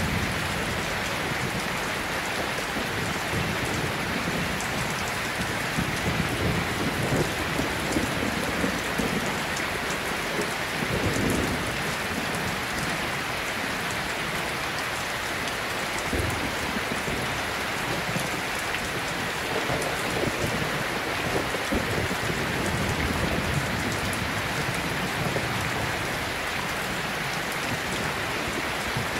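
Steady rain ambience: an even hiss of rainfall, with low rumbling swells coming and going a few times.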